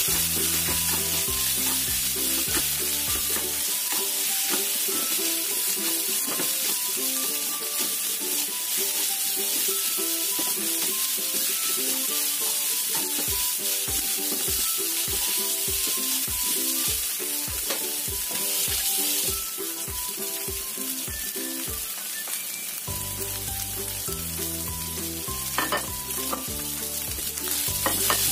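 Minced chicken filling sizzling in oil in a small frying pan as it is stir-fried until cooked, a plastic slotted spatula scraping and turning it, with a couple of sharper knocks of the spatula near the end. Background music with a steady beat plays underneath.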